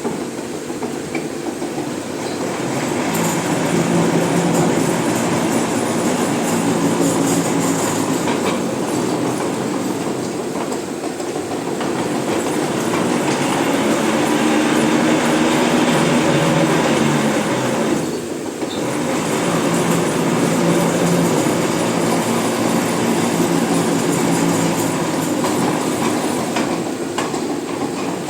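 A machine running steadily: a low hum over a rumbling, clattering noise that swells louder and softer. It dips briefly about eighteen seconds in.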